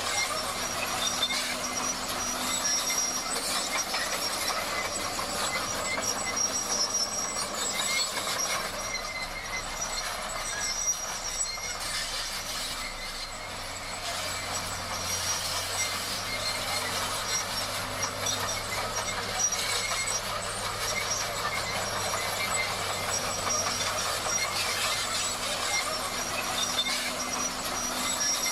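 Crawler bulldozer working: its steel tracks squeal and clatter over the steady running of its diesel engine.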